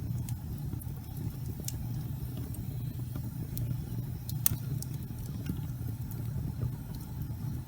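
Fire burning in a fireplace: a steady low rumble of flame with scattered sharp crackles, one louder pop about four and a half seconds in.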